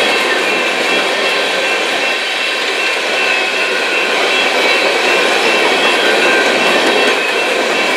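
Coal train's gondola cars rolling past at speed: a steady, loud rolling noise of steel wheels on rail, with a thin high squeal held through it.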